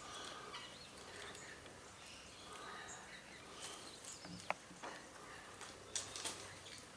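Faint chirps and short calls from several small wild birds, with a couple of sharp clicks about halfway through and again near the end.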